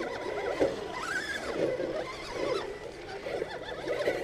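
Radio-controlled rock crawler's electric motor and gearbox whining as it drives over rock, the pitch rising and falling with the throttle, including one rise and fall about a second in.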